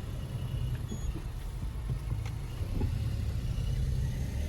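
Car driving, a steady low engine and road rumble with a few faint ticks.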